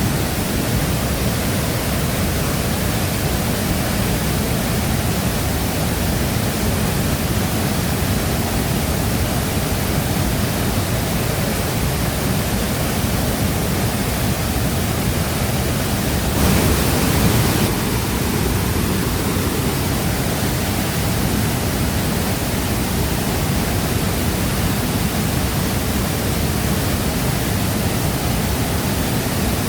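Waterfall running: a steady, loud rush of falling water, swelling slightly for a moment about halfway through.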